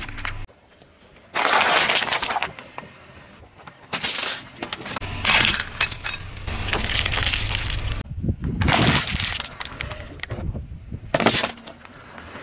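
Crunching and cracking of objects being crushed under a car tyre, in several separate bursts with abrupt cuts between them.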